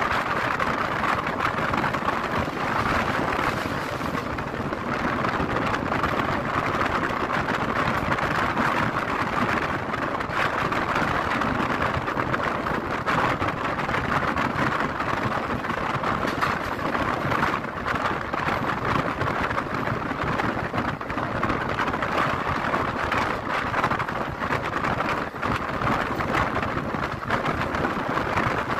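Passenger train running steadily, heard from an open coach door or window: a continuous rush of wheel-on-rail noise and wind past the coach, with fine clatter throughout.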